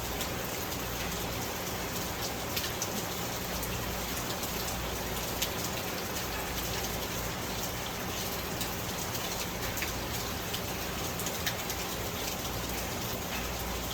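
Steady rain, an even hiss with scattered faint drop ticks, over a low steady hum.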